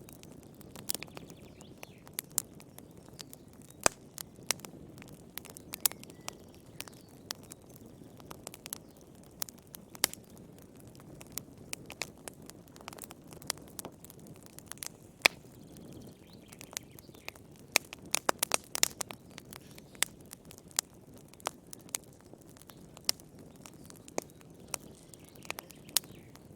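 Wood fire crackling: irregular sharp pops and snaps over a low, steady rumble of burning, with a quick run of pops about eighteen seconds in.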